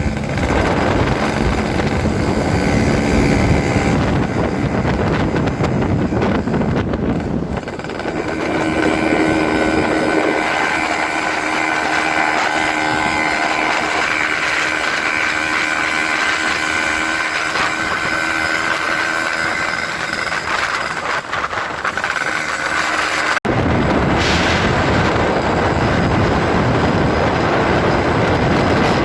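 Motorcycle running through a hollowed-out 'bobokan' exhaust, loud and continuous, holding a steady engine note for a long stretch in the middle. It breaks off abruptly a little over three-quarters of the way through and then carries on.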